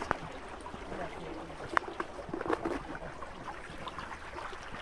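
Small mountain creek running steadily over rocks, with a few sharp clicks and knocks on top, the loudest just under two seconds in.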